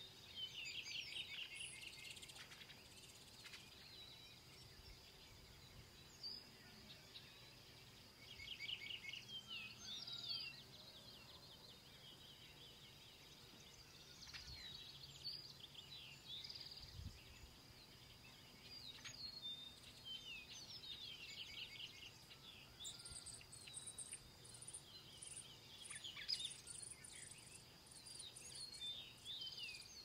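Faint birdsong: several birds chirping, with short fast trilled phrases that recur every several seconds, over a steady thin high-pitched hum.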